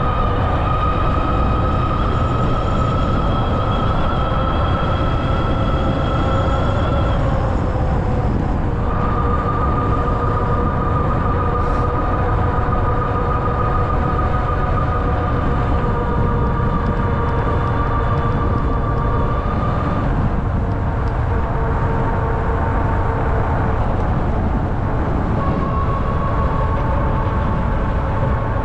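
Ariel Rider Grizzly e-bike's electric hub motor whining under power, its pitch creeping up slightly, over a heavy rumble of wind on the microphone and tyres on the road. The whine drops out briefly about seven seconds in, returns about two seconds later, and fades again past the middle as power comes off.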